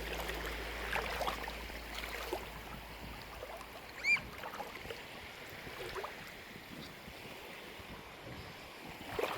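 Shallow seawater sloshing and lapping at the shoreline, with small splashes, as a dog wades through it. About four seconds in comes a single short, high chirp.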